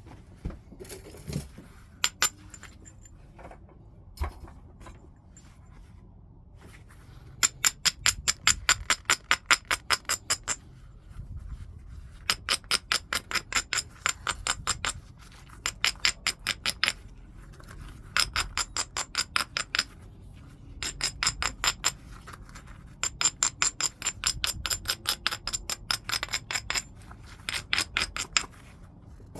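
A heat-treated Burlington chert piece being worked in flintknapping: a few single clicks, then repeated runs of quick, light strikes at about seven a second. Each strike rings with the same glassy high tones.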